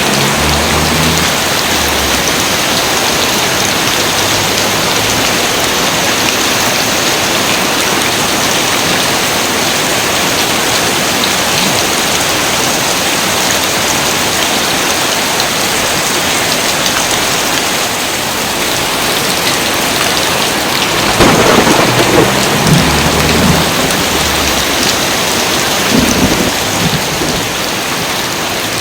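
Steady rain falling hard, with a roll of thunder about two-thirds of the way in and a shorter rumble near the end.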